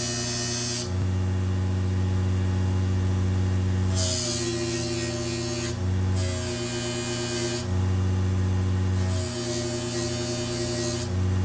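Small electric bench polishing machine running with a steady hum while a knife blade is worked against its buffing wheel. The sound switches back and forth, about every one to two seconds, between a hissing rub and a plainer, deeper hum, and the motor's pitch dips slightly at each change.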